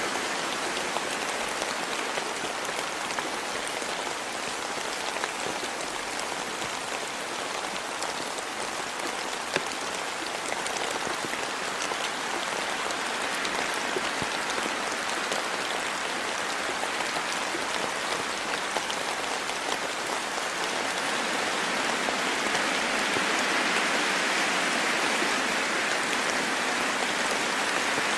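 Steady rain falling in a forest, an even hiss with scattered sharper drop ticks, growing slightly louder about three-quarters of the way through.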